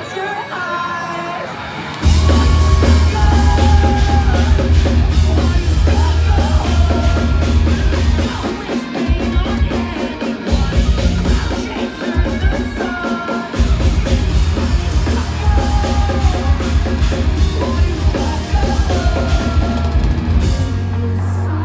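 A post-hardcore rock band playing live, recorded on a phone in the crowd. A lighter passage opens, then the full band with heavy drums and bass comes in about two seconds in, with a sung vocal line over it.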